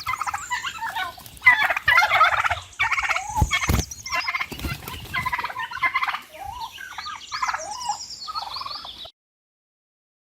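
Turkey gobbling: a run of quick, rattling gobble calls one after another, which stops abruptly about nine seconds in.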